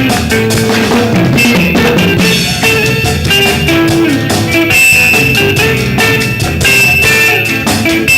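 Live rock band playing: a full drum kit keeping a steady beat under electric guitar and bass.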